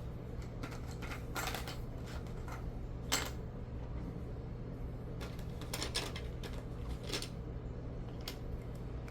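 Plastic Lego bricks clicking and rattling as pieces are handled and pressed together: scattered light clicks, the sharpest about three seconds in, over a steady low hum.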